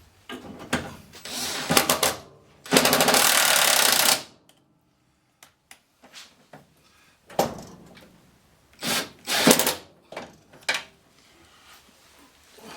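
Battery-powered impact tool hammering on the truck door's hinge bolts in bursts: two longer runs of about two seconds and a second and a half in the first four seconds, then a few short bursts in the latter half.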